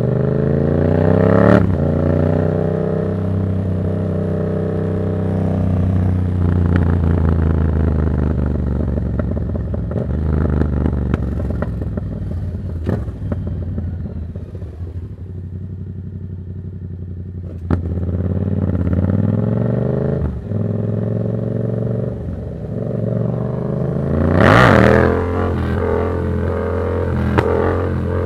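Yamaha MT-07's crossplane parallel-twin engine running through a Black Widow exhaust with its dB killer removed. It accelerates with a gear change about a second and a half in, cruises, then eases off and goes quieter in the middle. It pulls again and revs up sharply near the end, followed by a few sharp cracks.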